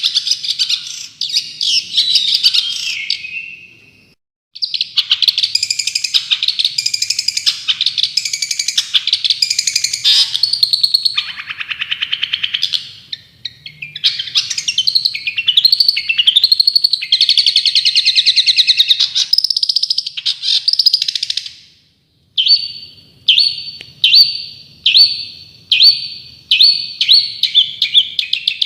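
Recorded songbird song in the rapid-fire 'tembakan' style: fast, high-pitched chattering and trilling in long bursts, broken by a short gap about four seconds in and another about three-quarters of the way through. After the second gap it turns into a series of sharp repeated notes, about two a second, quickening toward the end.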